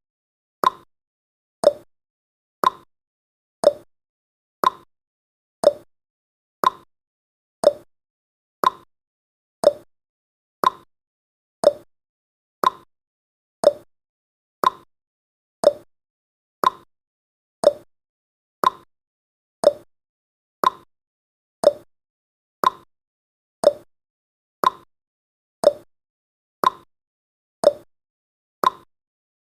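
Countdown timer's clock-tick sound effect: one short, sharp tick about every second, alternating between a higher and a lower tick like a tick-tock.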